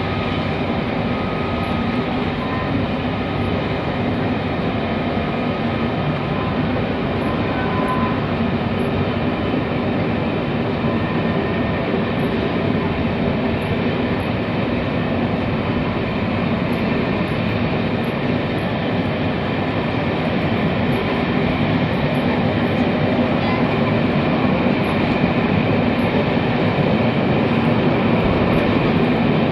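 Locomotive-hauled passenger coaches rolling slowly past behind a Class 67 diesel locomotive: a steady rumble of wheels and engine that grows a little louder near the end.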